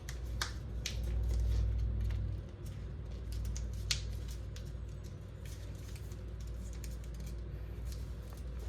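Origami paper being folded and creased by hand, with scattered crisp crackles and clicks of the paper. A low rumble runs under the first two seconds.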